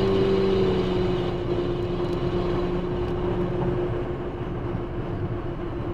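Turbocharged Toyota 1MZ-FE V6 engine of a 2001 Camry running under way with road noise, a steady drone. The drone dips slightly in pitch about a second in and then eases off gradually, as if the car is backing off the throttle.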